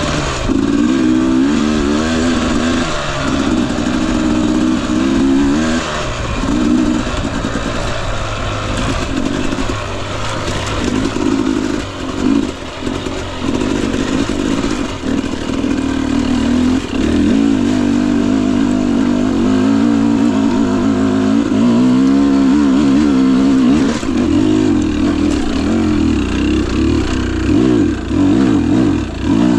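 Husqvarna TE250i fuel-injected two-stroke dirt bike engine running continuously, its pitch rising and falling again and again as the throttle is opened and closed.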